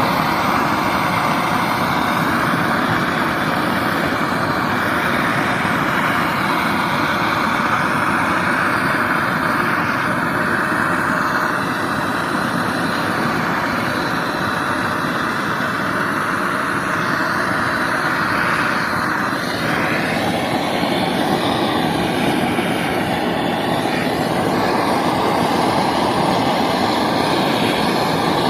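Butane torch flame blowing steadily while heating sandblasted exhaust headers to drive moisture out of the steel before painting. The tone of the flame shifts about two-thirds of the way through.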